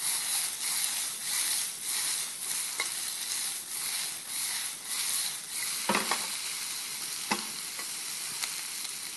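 Gnocchi, chestnuts, mushrooms and spinach sautéing in a hot pan: a steady sizzle that surges about twice a second as the pan is tossed. Later come a few sharp clicks of metal tongs against the pan as the food is stirred.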